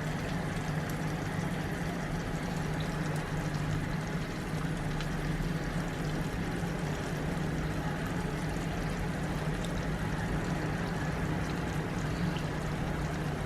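Steady kitchen background noise: a constant low hum under an even hiss, with faint scattered ticks.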